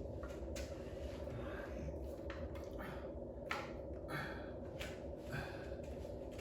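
A man breathing in short, sharp breaths through the nose, over a steady low hum.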